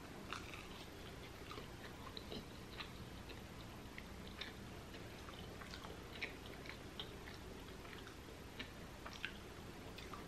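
Faint chewing of a fried vegetable samosa, with scattered small crisp clicks and crackles from the pastry shell and the mouth.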